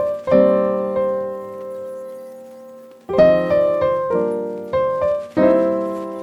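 Background piano music: chords struck and left to ring, one chord fading out for almost three seconds before the playing picks up again.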